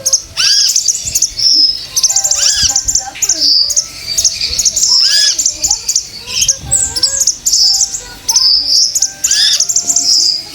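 Female konin bird calling continuously in a lure recording: a rapid run of high chirps and trills, with repeated arched call notes about every two seconds. It is the kind of call used to make a male konin sing.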